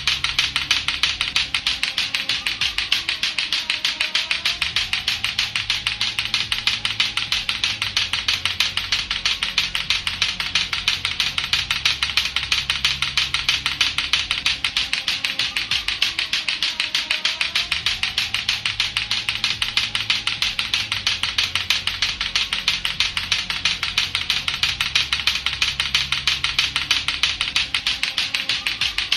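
Lato-lato clackers: two hard plastic balls on a string knocking together in a fast, steady, unbroken run of clacks.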